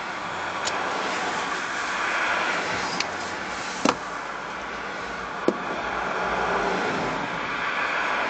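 Distant Formula 1 cars on track during qualifying, heard as a steady rushing drone that swells and fades. A few sharp clicks cut through it, two of them louder than the rest.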